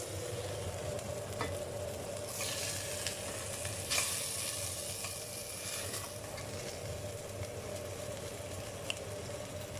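Chicken and garlic sautéing in hot oil in a pan, sizzling steadily, with a couple of brief louder rasps about two and a half and four seconds in.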